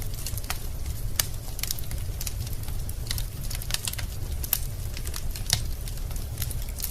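Wood fire burning in a fireplace: irregular sharp crackles and pops from the logs, several a second, over a steady low rumble of the flames.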